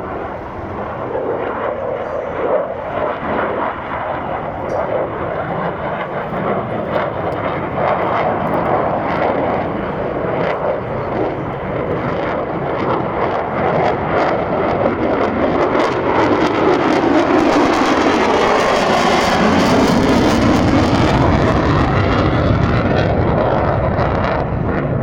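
Lockheed Martin F-35 Lightning II fighter jet, its single Pratt & Whitney F135 afterburning turbofan giving a continuous jet roar. The roar builds to its loudest about two-thirds of the way through, with a pitch that sweeps downward as the jet passes, then eases off slightly near the end.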